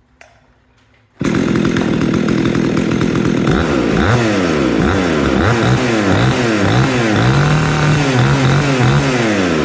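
Husqvarna 61 two-stroke chainsaw running. It comes in suddenly about a second in, then is revved up and down over and over.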